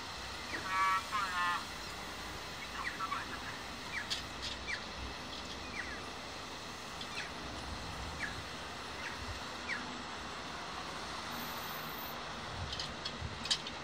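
Birds calling over steady outdoor background noise: one harsh, stacked call about a second in, then a series of short falling chirps spread through the rest, with a few faint clicks.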